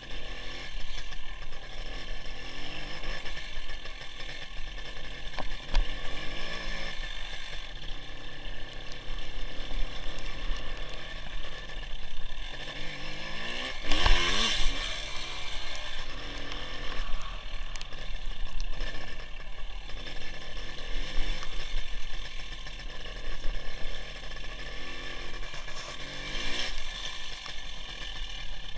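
WSK 175 motorcycle's single-cylinder two-stroke engine running under way, its revs rising and falling repeatedly, heard from an onboard camera. About halfway through a louder rush swells and fades.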